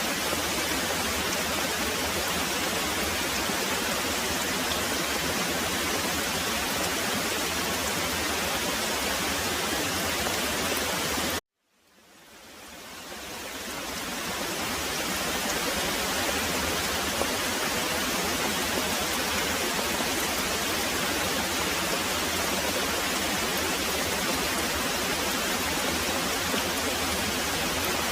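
Steady heavy rain, an even hiss of pouring water. About eleven seconds in it cuts out suddenly to silence, then fades back up over two or three seconds.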